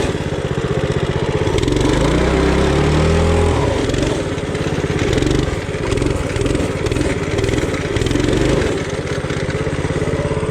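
Coleman RT200 mini bike's single-cylinder four-stroke engine running under load as the bike is ridden through mud, its speed rising and falling with the throttle.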